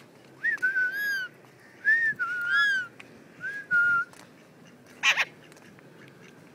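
Pet parrot whistling: three short phrases of clear, up-and-down whistled notes, then a brief harsh squawk about five seconds in.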